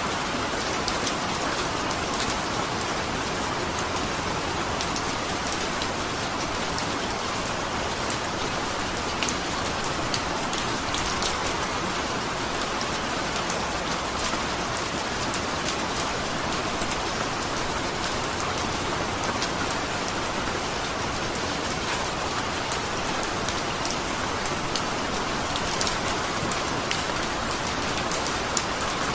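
Steady rain falling, an even hiss with the patter of individual drops landing on a surface.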